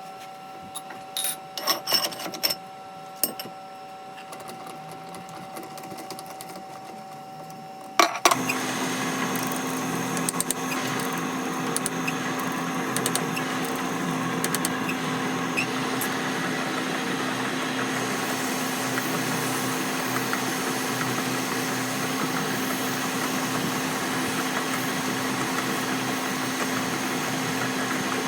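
Scattered metal clicks and knocks, then about eight seconds in a workshop power tool's motor starts with a sudden jolt and runs steadily.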